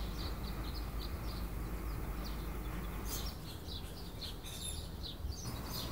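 Small birds chirping repeatedly and faintly, short high chirps over a low steady hum.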